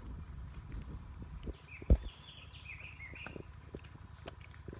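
Steady high-pitched insect drone with a short run of bird calls in the middle, and a few soft knocks, one louder thump about two seconds in.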